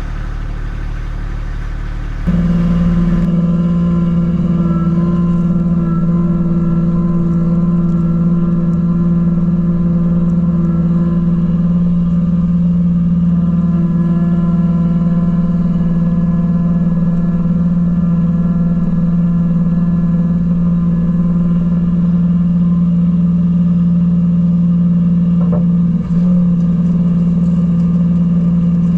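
Vehicle engine running steadily at a constant speed, with a strong steady hum; it gets markedly louder about two seconds in and holds steady after that.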